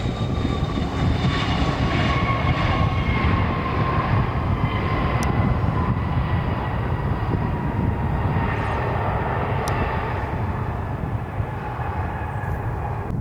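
Jet airliner's turbofan engines running loud and steady as it passes, a rumble with an engine whine that slowly falls in pitch.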